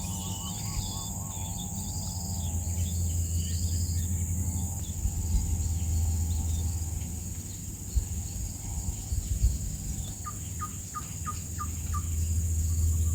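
Insects droning steadily at a high pitch, with small birds chirping over the first few seconds and a quick run of about seven short chirps near the end.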